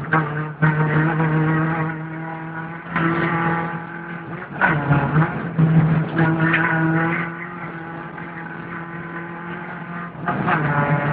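VW Golf Mk2 rally car's engine heard from inside the cabin, running hard at high revs. It falls away and picks up again a few times as the car is driven flat out on a dirt stage.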